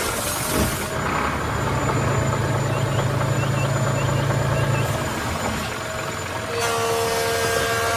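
A vehicle engine running steadily. About a second in, its sound changes to a lower, deeper hum with a few faint high chirps over it, and the higher tone comes back near the end.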